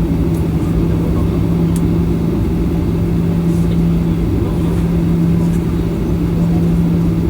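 Cabin noise of a Boeing 737-800 with its CFM56 turbofan engines running: a loud steady low hum and rumble that holds level without rising.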